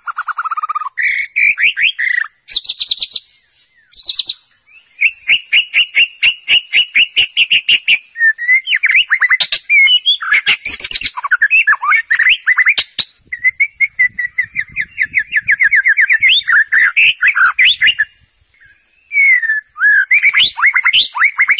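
White-rumped shama singing: a fast run of varied phrases made of rapidly repeated whistled notes and trills, with a brief pause near the end.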